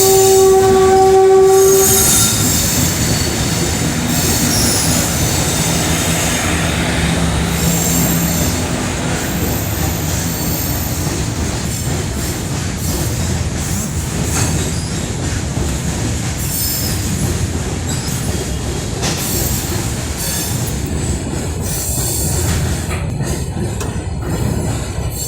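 Train horn sounding a chord that ends about a second and a half in, followed by the steady rumble and clatter of a passing train.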